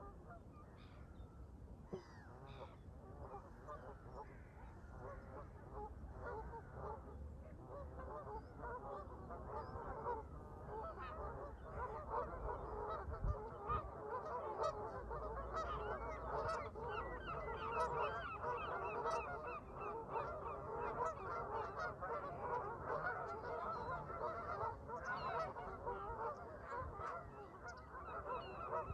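A flock of Canada geese honking, many calls overlapping, growing denser and louder about a third of the way in.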